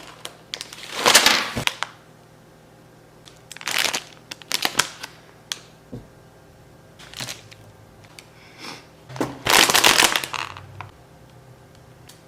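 Packaging crinkling and rustling in separate bursts as a snack box is opened and its wrapped contents are handled. The loudest bursts come about a second in and near the end.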